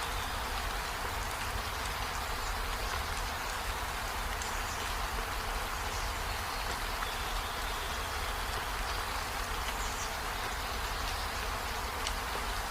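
Steady rain falling, an even hiss that does not let up. There is a low rumble under it and a few faint, short high chirps now and then.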